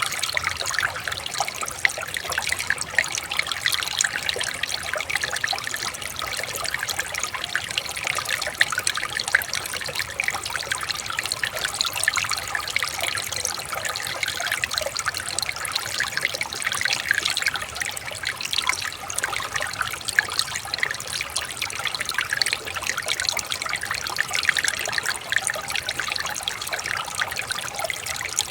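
Water trickling and splashing steadily over rocks, as in a small stream or river, with many small bubbling splashes.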